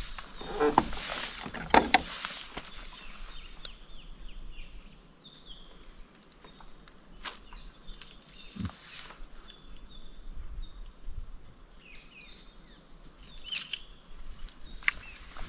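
Birds calling with short, repeated downward chirps. A few sharp knocks and rustles in the first two seconds are the loudest sounds.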